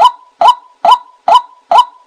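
Recorded decoy call of the bird known in Thai as nok kai na: one short, hooked note repeated evenly about twice a second, looped for luring birds.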